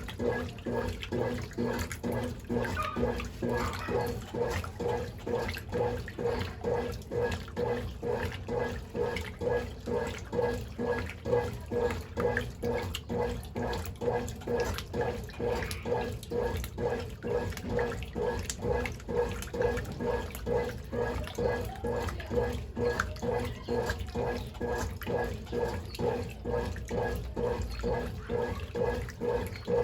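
Brastemp Ative 11 kg top-loading washing machine agitating a load: water sloshing, with a motor hum that pulses in a regular rhythm as the agitator swings back and forth.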